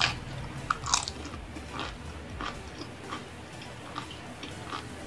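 A person bites into crispy fried food and chews it, crunching loudly. The loudest crunches come about a second in, then smaller crunches follow roughly every two-thirds of a second.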